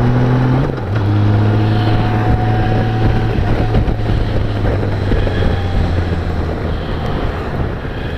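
Honda GL1800 Gold Wing's flat-six engine running under way, with wind and road noise. Its note drops about a second in, then holds steady and eases slightly lower.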